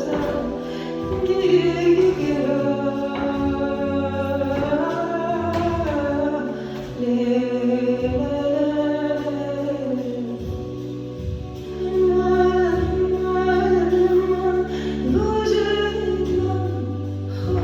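A song: a woman singing a slow, gliding melody over long held bass notes that shift every few seconds.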